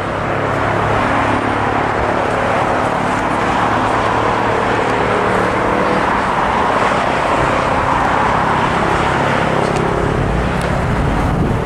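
Airliner jet engines at takeoff thrust during the takeoff roll: a loud, steady roar.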